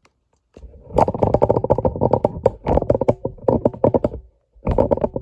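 Rapid clicking and rattling of a plastic Amazon Basics tripod being handled and forced into position, a dense run of small clicks with a short break about four seconds in.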